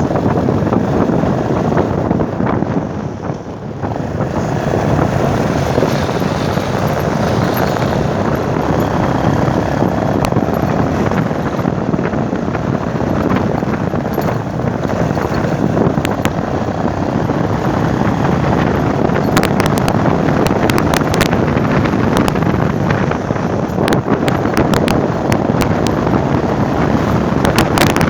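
Wind buffeting the microphone of a moving motorcycle, with the motorcycle running underneath it. The noise dips briefly about three seconds in, and sharp crackles from the wind on the microphone come in the last third.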